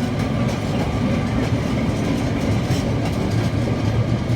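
Narrow-gauge steam train rolling along the track: a steady rumble with the clatter of the coaches' wheels on the rail joints.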